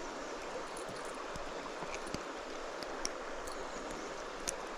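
Creek water flowing steadily, with a few faint clicks.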